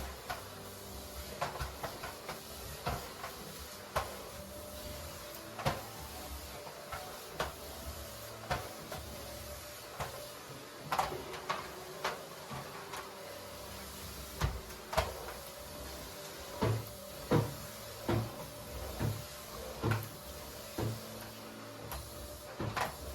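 Irregular light knocks and clicks of household objects being handled, growing louder and more frequent in the second half.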